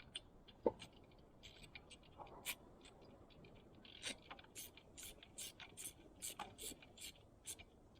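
Faint handling noises: irregular light clicks, ticks and scrapes, with one sharper knock a little under a second in and the clicks coming thicker in the second half.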